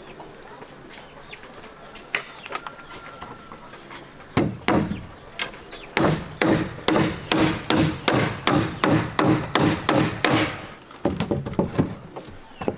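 Repeated blows on wood: a few single knocks, then a quick even run of about a dozen strikes, roughly three a second, each with a short ring, stopping suddenly.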